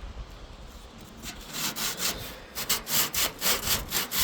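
Sandpaper being rubbed by hand over the rusted metal of a refrigerator evaporator cover, scrubbing off rust in quick back-and-forth strokes. The strokes start about a second in and grow louder and more regular.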